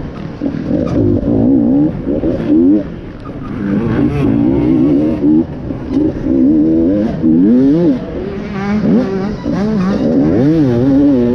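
Enduro dirt bike engine revving up and down constantly as the throttle is worked over rough ground, with a few quick sharp rises in pitch about eight to ten seconds in.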